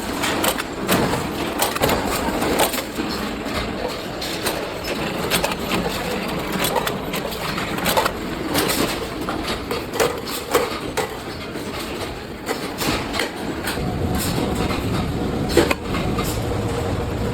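Can-making production machinery clattering: a steady mechanical din broken by many irregular sharp metallic clicks and knocks.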